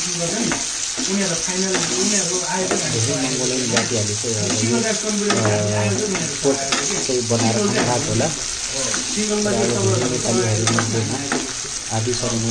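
Pork curry frying and sizzling in a steel pan while a metal ladle stirs it, scraping and clicking against the pan again and again. A low hum comes and goes underneath.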